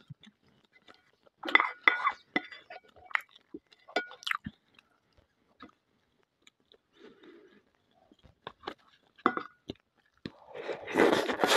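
Close-miked eating sounds: sparse chewing and wet mouth noises with small clicks, and a louder spell of eating noise near the end as a spoonful goes into the mouth.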